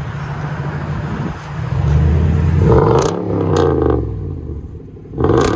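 A 2019 Toyota Tundra's 5.7-litre V8 breathing through a true-dual exhaust with Flowmaster Outlaw mufflers. It runs steadily at first, then is revved twice, the pitch rising and falling each time, the second rev coming near the end.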